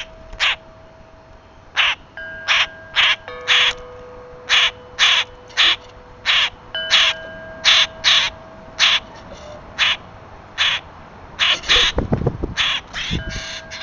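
A bird giving short, harsh, caw-like calls over and over, about one to two a second. A couple of low thumps come near the end.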